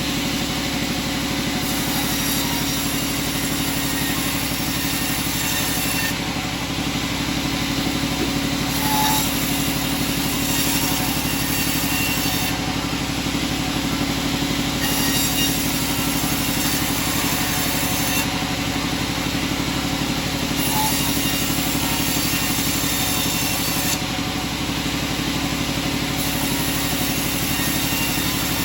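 Sawmill machinery running steadily with an engine-like hum. A high hiss comes in and cuts out every few seconds.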